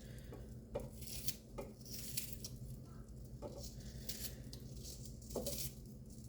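Knife cutting through onion and tapping on a cutting board in irregular chops, over a steady low hum.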